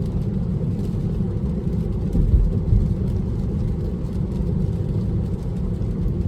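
Steady road and tyre rumble heard inside an electric car's cabin while driving on a wet road at speed, with no engine note.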